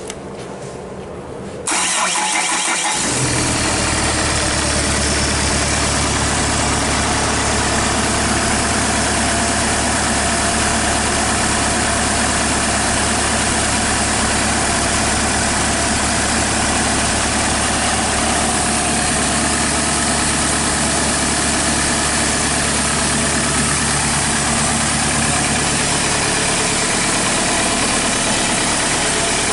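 Hyundai D4CB 2.5-litre four-cylinder common-rail diesel engine, run out of the vehicle on a test stand. It starts about two seconds in and settles into a steady idle.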